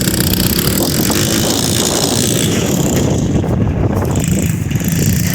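Small single-cylinder four-stroke pit bike engine running hard at full throttle, holding a fairly steady note.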